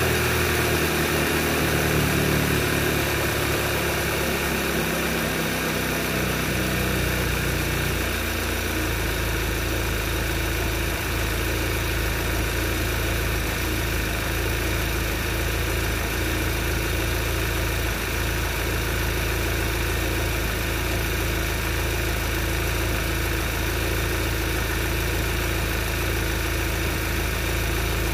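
Audi TT's tuned, turbocharged EA888 2.0 TFSI four-cylinder idling from a cold start, heard from the open engine bay. Its idle steps down in pitch over the first eight seconds or so as the cold fast idle settles, then holds steady.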